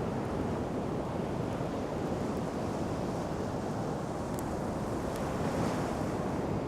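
Steady wash of sea surf on a sandy beach, with wind on the microphone and a few faint crackles from a wood campfire.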